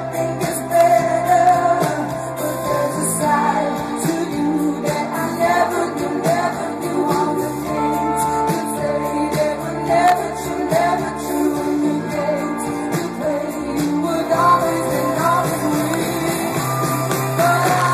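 A live pop-rock ballad: a female lead singer over a full band, with sustained bass and guitar, recorded live in a large hall.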